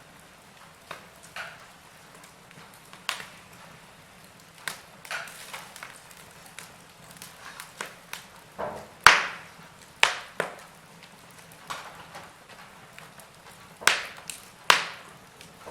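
Wood logs burning in a fireplace, crackling with irregular sharp pops over a faint steady hiss. The loudest pops come about nine seconds in and twice near the end.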